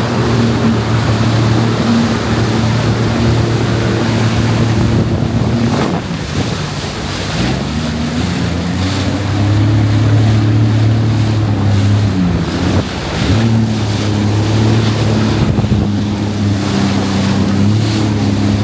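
Jet ski engine running under way, its pitch dropping briefly twice and climbing back as the throttle eases and opens, over rushing water spray and wind on the microphone.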